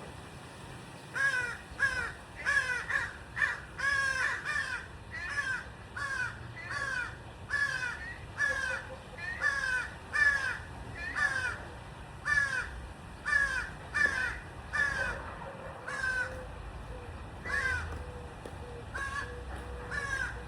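A bird calling over and over, short falling calls about one or two a second, with a low steady background rumble.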